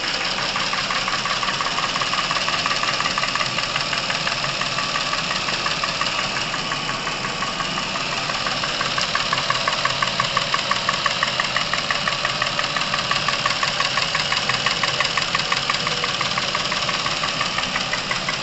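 Chevrolet Epica engine idling warm with a rapid, even ticking knock from the top of the engine, which grows more distinct about halfway through. The owner puts this top-end noise down to clogged oil passages and is flushing them with dimexide just added to the oil.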